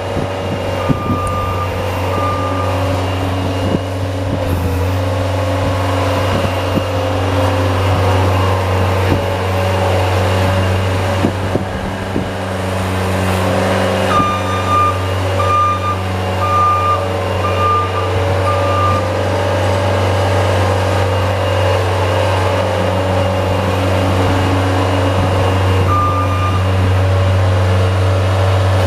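Snow-plowing vehicle's engine running steadily, with a reversing alarm beeping about twice a second in short spells as it backs up: briefly near the start, for about five seconds in the middle, and once more near the end.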